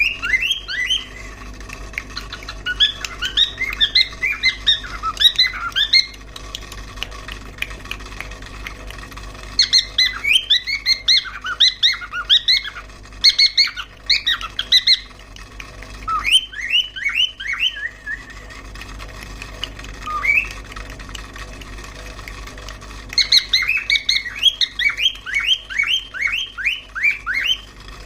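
A cockatiel calling in rapid runs of short squawking chirps. The runs come in about four bouts separated by pauses of a few seconds, with one lone call in between, over a steady low hum.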